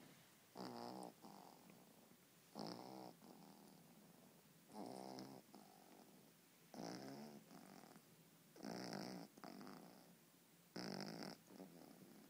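Boston terrier snoring in its sleep: a short, pitched snore on each breath about every two seconds, six in all, with softer breathing between.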